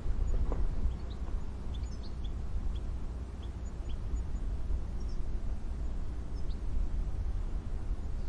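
Small birds chirping faintly: a run of short, high, downward-sliding notes in the first few seconds and a couple more later, over a steady low rumble.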